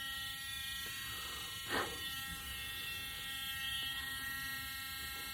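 Small handheld power sanding tool, most likely a rotary tool, running at a steady speed with an even buzz, with one brief sharper sound about two seconds in.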